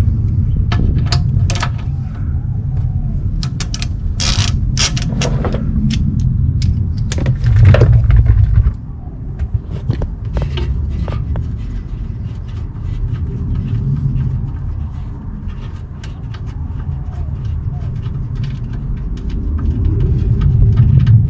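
Ratchet clicking and metal tool clinks as the oil drain plug is loosened and backed out under the engine, over a steady low rumble; the loud rumble cuts off sharply just under nine seconds in.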